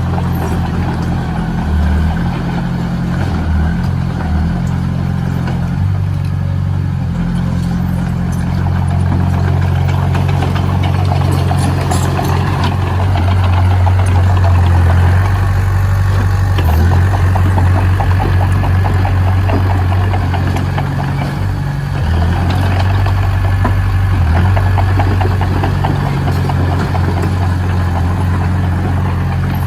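Diesel engine of heavy construction machinery running steadily, getting louder for several seconds in the middle as it works harder.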